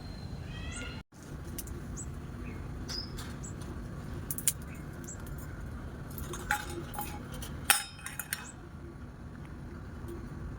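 Pet birds giving a few short chirps, with sharp clinks and taps about four and a half, six and a half and eight seconds in, over a steady low rumble.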